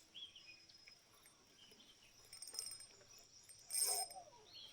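Insects droning steadily at a high pitch, with a few short bird chirps, and one brief louder burst of noise near the end.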